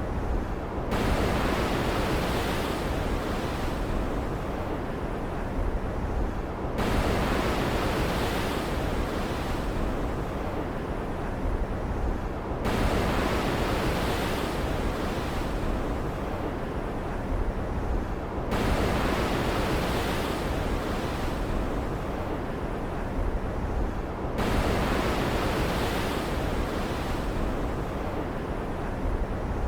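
Stormy-sea ambience of surf and wind: a steady rush of waves that swells sharply about every six seconds, as a wave breaks, and then slowly fades.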